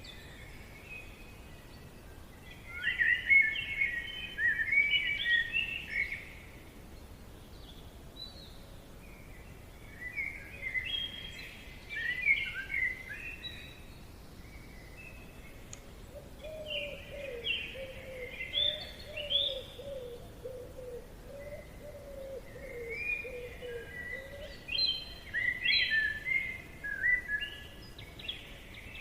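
Songbirds singing in repeated bouts of quick, varied chirping notes, each bout lasting a few seconds with pauses between, over a steady low background hiss of forest ambience. A lower, warbling call runs under the singing through the middle of the passage.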